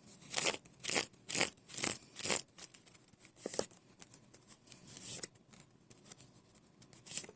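Tarot cards being shuffled and handled: a run of quick papery swishes about two a second, then a few sparser ones as the cards are drawn and laid down.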